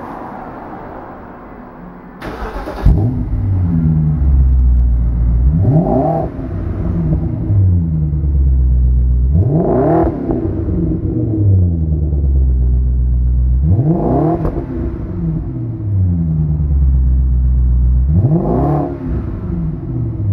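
BMW 545i (E60) 4.4-litre V8 breathing through a WALD stainless-steel aftermarket exhaust: it starts up about three seconds in, then settles to idle and is blipped four times, the pitch rising sharply and falling back about every four seconds.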